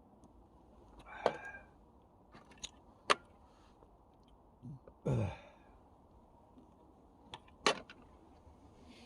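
A few separate sharp clicks and knocks, spaced a second or two apart with quiet between them, like camp gear being handled and set down.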